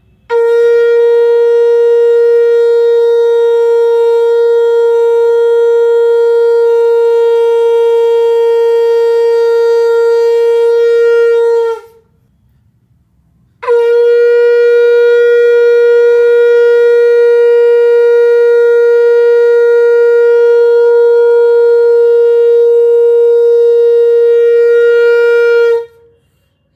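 Conch shell (shankh) blown in two long, steady blasts of about twelve seconds each, with a short pause for breath between them; the note sags slightly as each blast ends.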